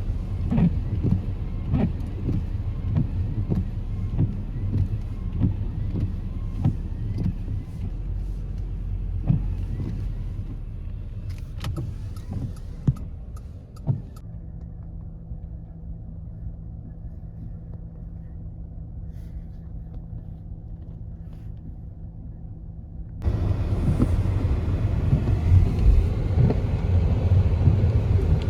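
Car running on a snowy road, heard from inside: a steady low rumble with scattered clicks. About halfway through it drops to a quieter, even engine hum, and the louder rumble comes back suddenly near the end.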